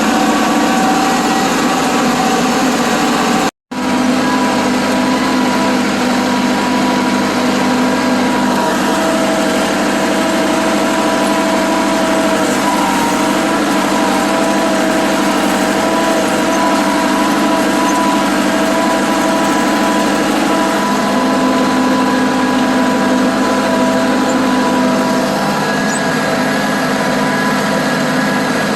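Massey Ferguson 385 tractor's diesel engine running steadily at an even speed. The sound cuts out for a split second about three and a half seconds in.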